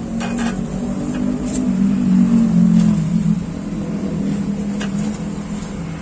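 Yamaha Jupiter MX 135's single-cylinder four-stroke engine running through an R9 Misano aftermarket exhaust fitted with its db killer, the exhaust note rising to its loudest about two to three seconds in and then settling back.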